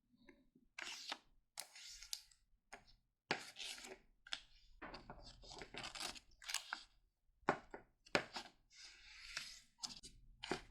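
A sheet of paper being handled and folded: irregular rustling and crinkling, with a few sharp crackles as creases are pressed.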